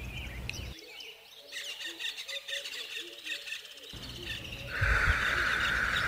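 Forest ambience with birds chirping and calling. About five seconds in, a louder steady high drone comes in, with a couple of low thumps.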